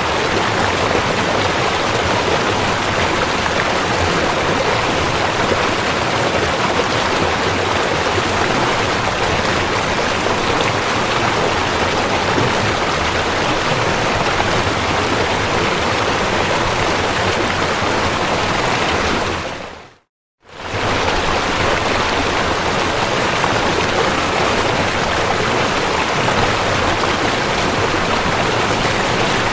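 Rushing river water, a steady even rush. About two-thirds of the way through it fades out to silence for about half a second, then fades straight back in.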